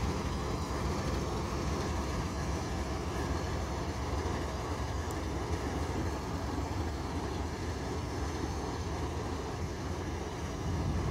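CSX diesel locomotive leading a double-stack container train, moving slowly past with a steady low rumble.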